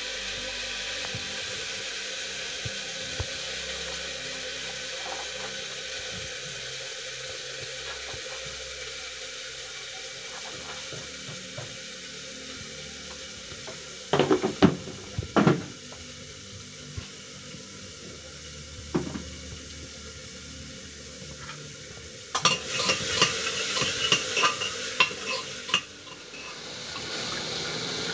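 Food frying with a steady sizzle in an aluminium pressure cooker over a wood fire. There are a few loud knocks about halfway through, and near the end a steel spoon scrapes and clatters against the pot as the food is stirred.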